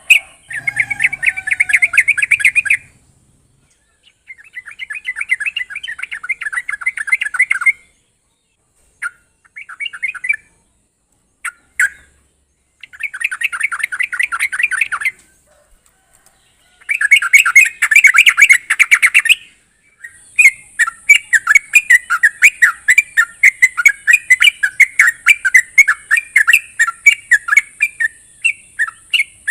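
Yellow-vented bulbul (trucuk) calling in fast chattering phrases of two to three seconds with short pauses between them, then an unbroken run of chatter from about twenty seconds in.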